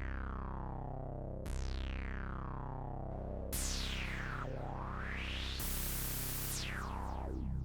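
Yamaha AN200 virtual-analog synthesizer holding a low, buzzy bass tone while a resonant filter sweeps through it: a bright sweep falling after about a second and a half, another that falls and then rises from about three and a half seconds, a burst of bright hiss past the middle, and further falling sweeps near the end.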